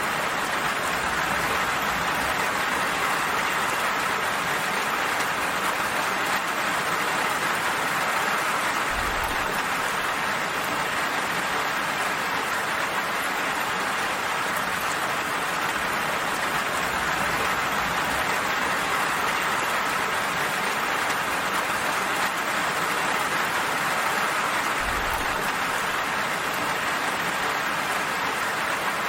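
Steady, even rain falling, a continuous hiss of drops.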